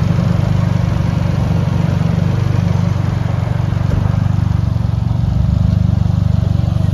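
A car engine idling steadily close by, with a fast, even pulse.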